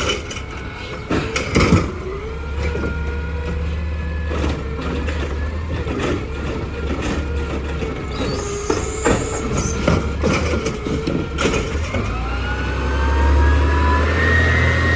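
Garbage truck running with a steady diesel rumble, with repeated metallic clanks and knocks. About twelve seconds in it revs up, and a whine rises steadily in pitch.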